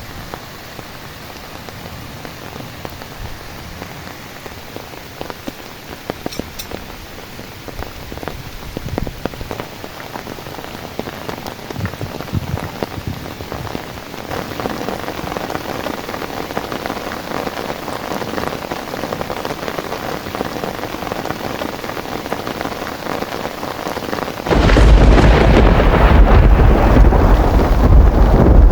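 Heavy rain falling steadily, with scattered separate drops hitting close by, slowly growing heavier. Near the end it jumps suddenly to a much louder, deep rumbling roar.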